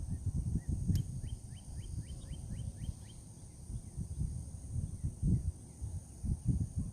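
Wind buffeting the microphone in uneven low gusts. About a second in, a bird gives a quick run of short, high chirps, about five a second, for two seconds. A steady thin high insect drone goes on underneath.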